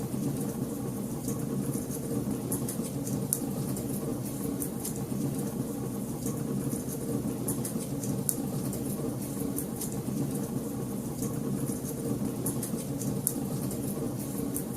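Wood fire in a fireplace crackling, with frequent small sharp pops over a steady low rumble of the flames.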